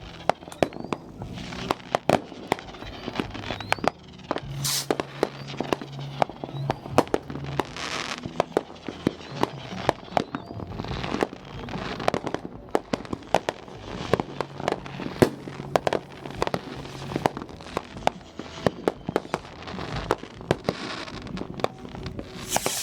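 Many consumer fireworks going off at once: a dense, irregular string of sharp bangs and crackles, with several longer hissing bursts mixed in.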